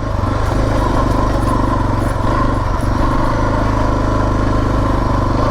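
Suzuki DR650's single-cylinder four-stroke engine running steadily while the bike is ridden along at a constant pace.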